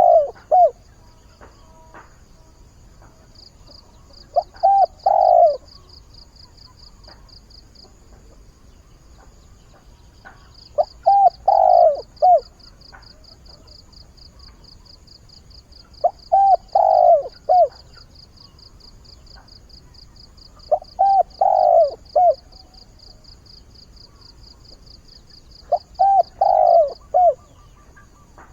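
Captive decoy spotted dove cooing its crowing call. Each phrase is a few short coos, a longer falling coo and a short closing note, repeated five times about every five seconds. It is the call a decoy dove gives to draw wild doves in.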